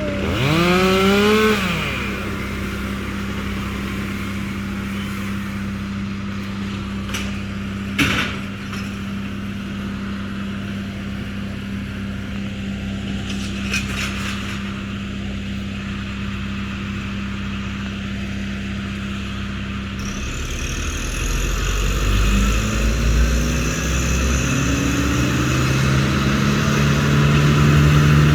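An engine running at a steady speed, with a brief sweep of revs at the start and a single sharp knock about eight seconds in. From about two-thirds of the way through, the sound deepens and the pitch climbs as the engine revs up.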